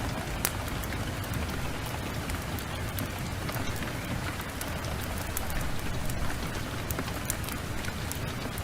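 Heavy rain falling: a steady hiss with many scattered sharp ticks of drops over a low rumble.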